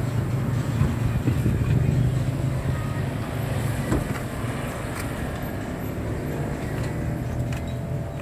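Nissan CWA 260 truck's diesel engine idling steadily, with a couple of light clicks about four and five seconds in.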